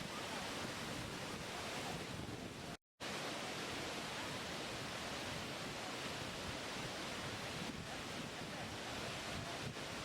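Waterfall: a steady, even rush of falling water, cut off completely for a split second just under three seconds in.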